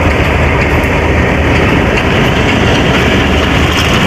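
Pakistan Express passenger train running along the track: a loud, steady rumble of the carriage with faint clicks from the wheels.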